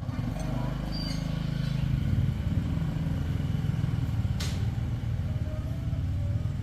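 Motorcycle engine running with a steady low rumble that swells slightly in the first two seconds, and a single sharp click about four and a half seconds in.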